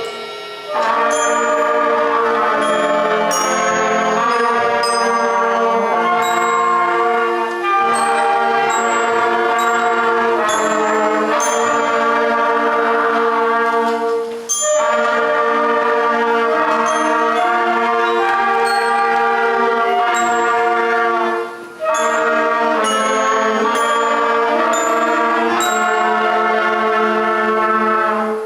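Beginner school concert band of woodwinds and brass playing a slow piece in long held phrases, with short breaks between phrases.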